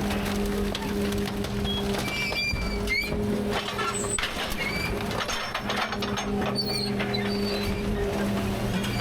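Rear-loader garbage truck running with a steady droning hum from its engine and hydraulics, over a string of knocks and clatter from the hopper and a few short high chirps.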